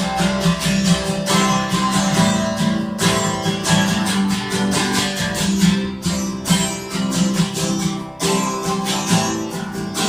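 Acoustic guitar strummed in a steady rhythm, an instrumental passage of a live song with no singing.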